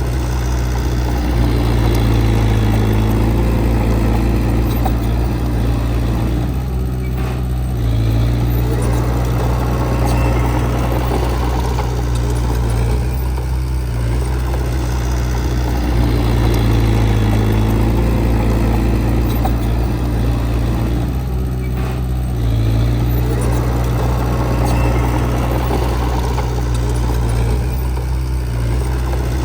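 Heavy diesel engine of earthmoving equipment running steadily, with its sound easing briefly twice.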